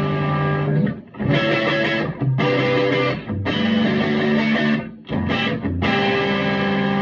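Electric guitar played through a Vintage Sound Amp (VSA) with its tweed and plexi channels combined, lightly overdriven. Ringing chords are broken by a few short stops.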